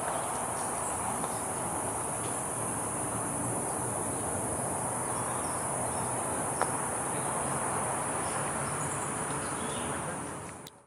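A steady high-pitched chorus of tropical forest insects, one unbroken trill, over a soft background hiss. It fades out at the very end.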